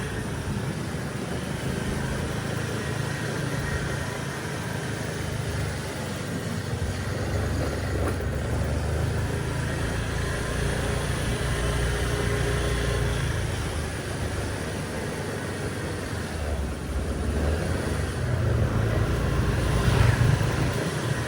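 Street traffic: engines of passing vehicles running steadily, growing louder near the end as one passes close.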